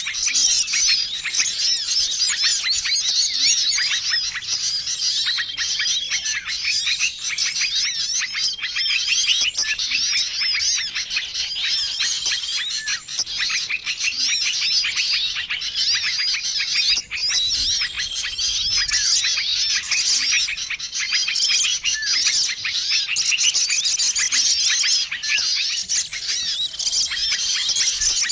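Dense chorus of many small songbirds chirping and twittering over one another, a mixed lure recording for trapping small wild birds, with a short level whistle repeating every few seconds.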